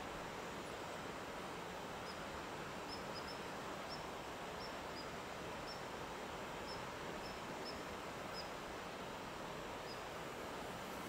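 Steady outdoor background hiss with about a dozen short, high bird chirps spread unevenly from about two seconds in to near the end.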